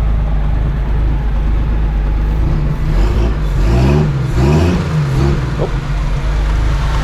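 Ford crossflow 250 straight-six engine in a Toyota Dyna truck idling smoothly, with the throttle blipped twice a little past halfway, the revs rising and falling quickly each time.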